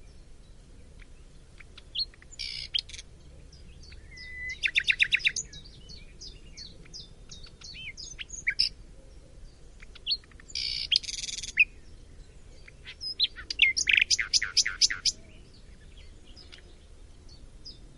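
A họa mi songbird singing a varied song in separate phrases: scattered clear whistled notes, two rapid trills of repeated notes (about 5 s in and again near the end), and two short harsh buzzy phrases.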